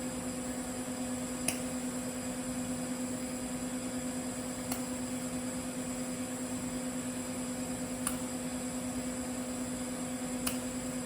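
TIG welding arc burning steadily on carbon steel pipe during a root pass with 308 stainless filler: a steady electrical hum with a high whine and hiss. A short click comes every three seconds or so.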